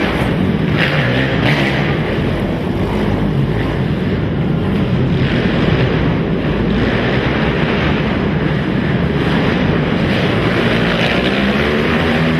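Racing ATV (quad) engines running hard and revving, several engines overlapping in a continuous drone with rising and falling pitch.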